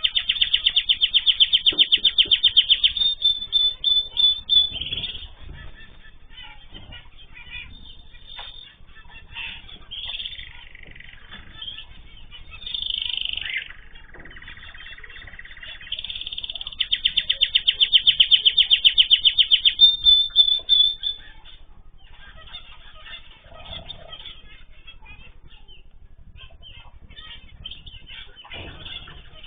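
Cage birds calling: two runs of fast repeated high notes, about ten a second and a few seconds each, one at the start and one about halfway through, with scattered short chirps between.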